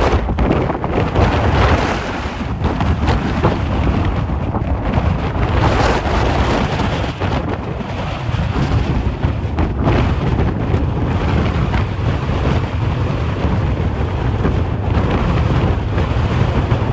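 Strong gusting wind buffeting the microphone: a loud, low rumble that rises and falls with the gusts.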